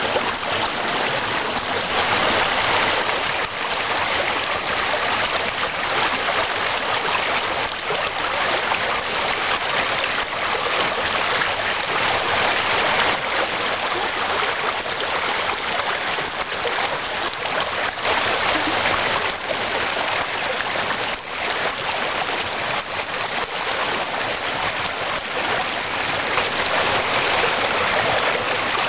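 Small waterfall of spring meltwater running steadily with an even rushing splash.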